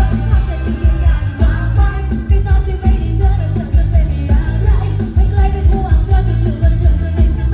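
Loud live band music played through a Thai rot hae sound truck's speaker system: a heavy, steady bass beat under a singing voice.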